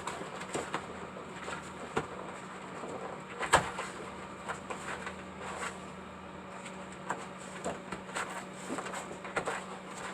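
Irregular light knocks, clicks and scrapes of hand work on the waterfall material, with a louder knock about three and a half seconds in, over a steady low hum.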